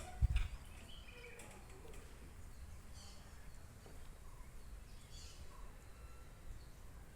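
Outdoor ambience: a few faint, short bird chirps over a steady low rumble, with a bump just after the start.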